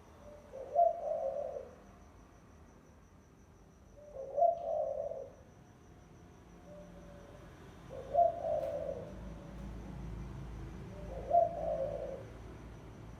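Spotted dove cooing: four short phrases, each a sharp first note followed by a lower run of coos, repeated about every three and a half seconds.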